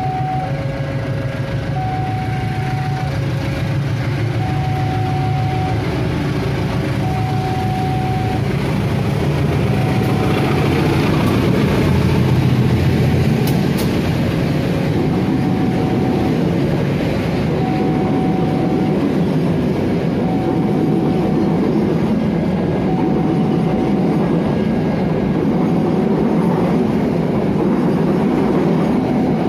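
A locomotive-hauled passenger train runs past, its engine rumbling and its wheels clacking over the rail joints, growing louder from about ten seconds in. Throughout, a level-crossing alarm sounds, alternating two steady notes about once a second.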